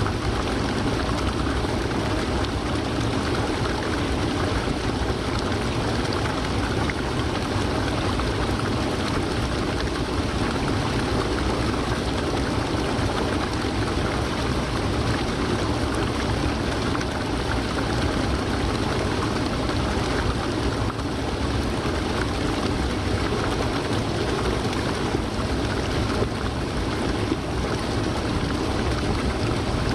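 Waterfall: water falling and pouring in a steady, unbroken rush that is fullest in the low, deep part of the sound and never changes.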